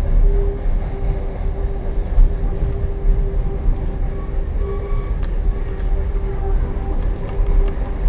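Ride inside a passenger car of a steam excursion train rolling along the track: a steady low rumble of wheels on rail, with a thin steady tone running through it and a few sharp clicks.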